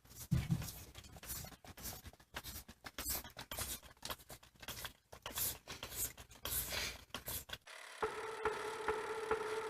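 Irregular scratching and scraping noises. About three-quarters of the way through they stop, and a steady sound with a few held tones and faint regular ticks takes over.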